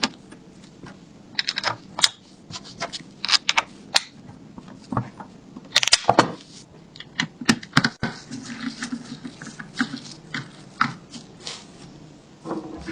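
Irregular metallic clicks and clinks of small steel gun parts being handled and fitted together on a submachine gun.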